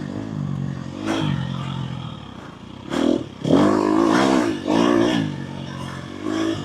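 Dirt bike engine revving up and falling back again and again as it is ridden over a rough trail, with throttle bursts about a second in and a longer run of revs from about three seconds in.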